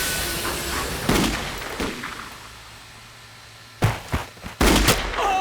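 Gunshots on a film soundtrack: a couple of fainter shots about a second in, then two loud shots near the end, over the fading noise of a train.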